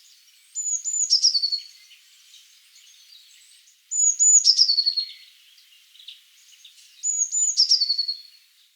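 A small songbird singing the same short phrase three times, about three seconds apart: a couple of high, thin notes, then a quick falling trill.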